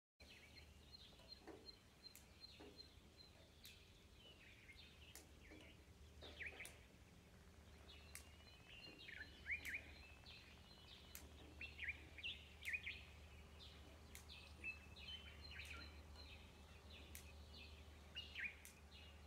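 Several wild birds calling faintly: short chirps and quick downward-sweeping notes, with a rapid run of high pips in the first few seconds, over a low steady hum.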